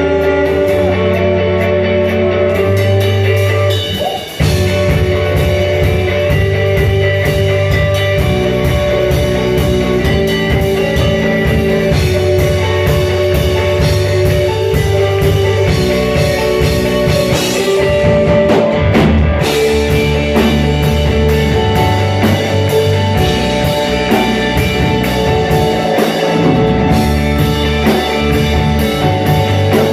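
Live rock band playing a song: guitar, bass and drum kit. There is a brief drop in level about four seconds in before the full band comes back.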